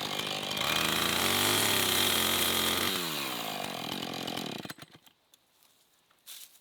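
Small two-stroke chainsaw running, revved up to high speed for about two seconds, then winding down and shut off about three-quarters of the way through. A few faint clicks follow.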